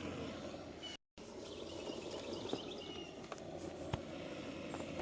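Quiet outdoor ambience: a steady low hiss with faint bird chirps in the middle and a few light clicks. The sound cuts out completely for a moment about a second in.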